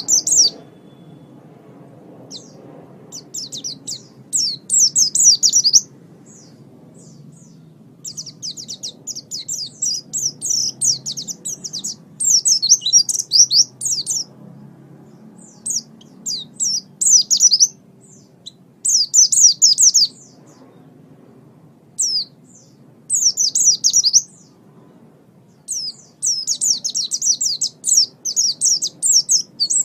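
A small songbird singing in rapid, high-pitched chirping phrases of one to two seconds each, with short pauses between them. This is a recorded lure-and-training song of the kind played to caged songbirds so they learn it.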